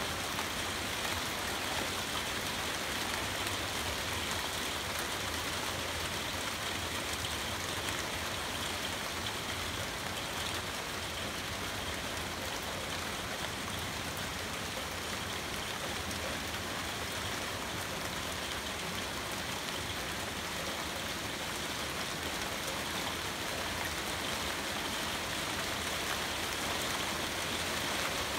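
Steady rain falling, an even unbroken hiss of drops with no let-up.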